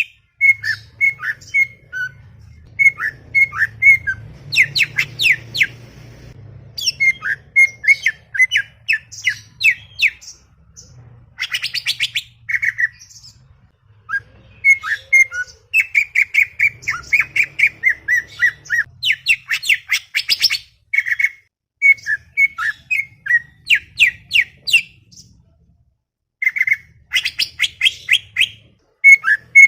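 Cucak ijo (green leafbird) singing: rapid, chattering phrases of quick chirps and whistled notes with short pauses between them.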